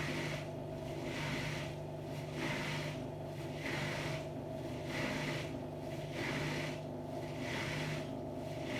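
Hotpoint-Ariston Aqualtis washer-dryer running. Its drum turns with a swishing hiss that repeats about once a second, over a steady machine hum.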